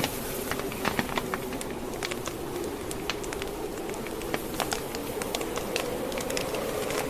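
Wood fire in a fireplace crackling, with irregular sharp pops and snaps of burning logs, over a steady howling blizzard wind.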